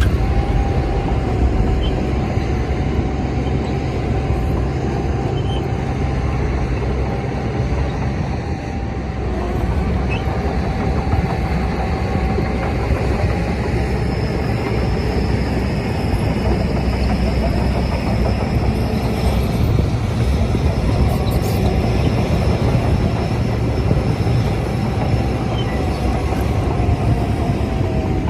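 Bulldozer's diesel engine running steadily under load, with a steady metallic squeal over the low rumble, dipping briefly about eight seconds in.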